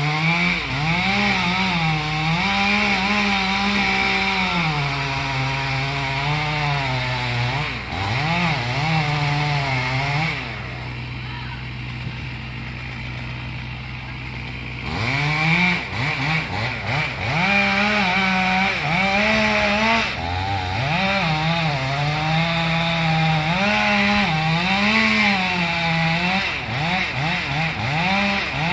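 Chainsaw cutting through a large dead gum tree, its engine speed rising and falling as the chain bites. For a few seconds near the middle it drops back to a quieter, steady idle, then revs up and cuts again.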